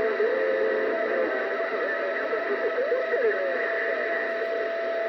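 CB radio receiver on the 27 MHz band giving off steady static hiss with a constant heterodyne whistle, while wavering, garbled tones from distant stations warble underneath.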